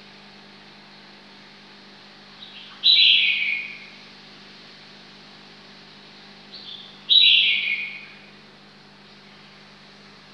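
A bird calling twice, about four seconds apart: each call is a short high note that drops in pitch in steps, with a softer short note just before it. A faint steady low hum runs underneath.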